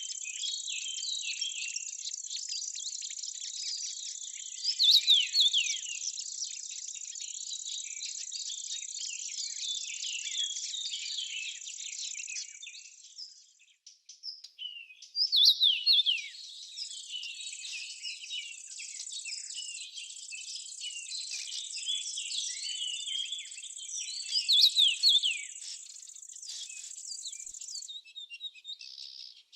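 Small birds chirping and twittering over a steady high-pitched insect buzz. The chirping swells in three louder bursts, and all of it dies away briefly about halfway through.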